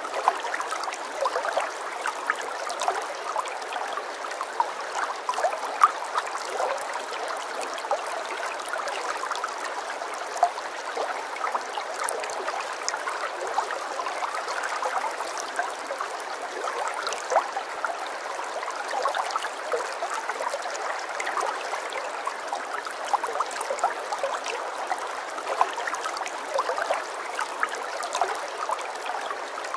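Running water, like a small stream: a steady rush dotted all through with small splashes and drips, thin and without any deep rumble.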